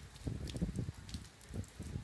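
Hurricane wind gusting against the microphone in uneven low rumbles, with rain spattering in short crackles.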